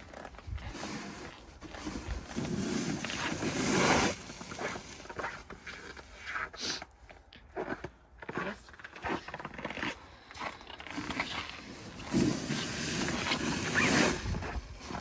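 Snow shovel scraping and scooping snow in irregular strokes, loudest about two to four seconds in and again near the end.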